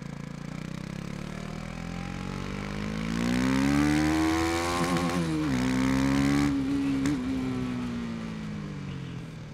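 KTM 250 Duke's single-cylinder four-stroke engine under way: the revs climb for a few seconds, drop sharply once about halfway, as with an upshift, then fall slowly as the throttle is rolled off. Wind rushes past while the engine is pulling hardest.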